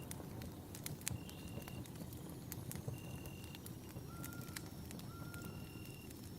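Campfire burning, with sharp irregular crackles and pops over a steady low rustle. A high, even note of about half a second recurs roughly every two seconds, and two shorter, lower notes come in the middle.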